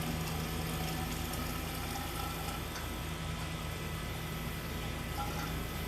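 Steady low mechanical hum of a running motor, with a faint regular pulsing underneath.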